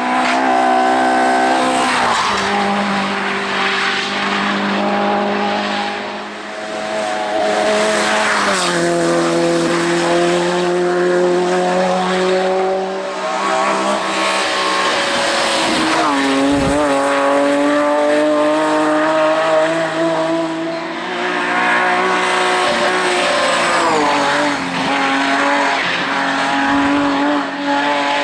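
Race car engine running hard on a hill climb, its note dropping in steps at several gear changes and holding high between them.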